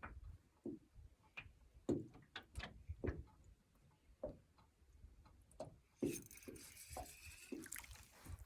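Light irregular clicks and knocks of a spinning reel being cranked to retrieve a crappie jig. About six seconds in, a hissing rush lasts roughly two seconds.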